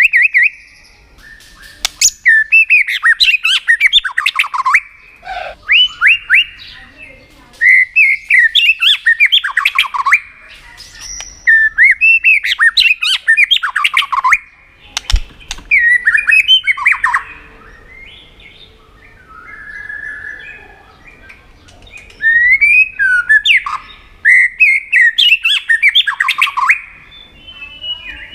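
White-rumped shama calling in repeated bursts of rapid, harsh chattering and sweeping whistled notes, each burst lasting a second or two with short pauses between. These are its excited 'tạch' calls.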